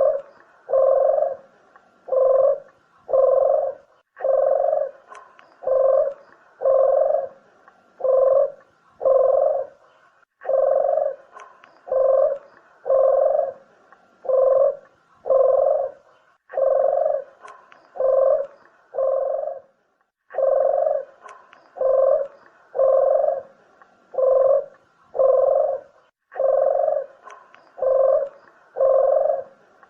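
Barbary dove (burung puter) cooing: low, even coos about one a second, in runs broken by a short pause every five or six seconds.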